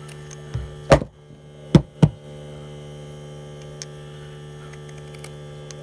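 Steady electrical hum, with four short knocks in the first two seconds as hard objects are handled.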